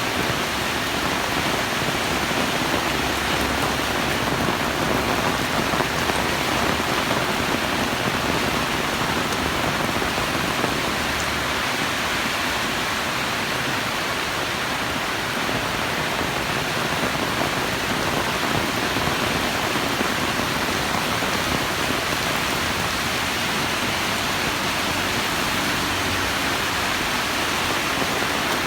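Heavy rain falling steadily, a dense even hiss of rain on surfaces with no let-up.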